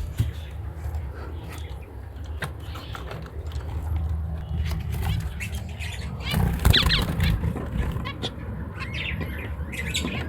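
Finches chirping in an aviary with short high calls, most of them in the second half, over a steady low hum. Scattered sharp clicks and flutters are heard throughout.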